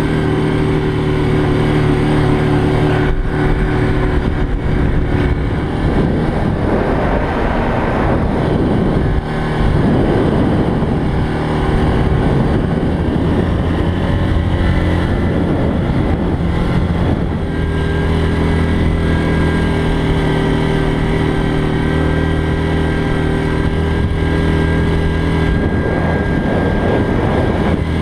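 ATV engine running steadily while riding a snowy trail. A rougher, noisier stretch runs from about 6 to 17 seconds, and the engine pitch shifts around 18 seconds.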